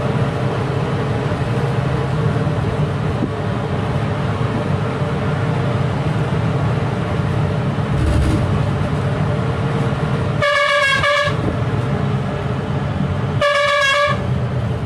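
Truck engine and road noise running steadily, with two short horn blasts about three seconds apart near the end, each lasting under a second.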